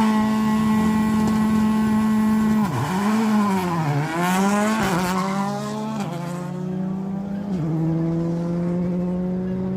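Semi-truck tractor unit's diesel engine accelerating hard: it revs up, holds high, then its pitch drops and climbs again several times as it shifts up through the gears.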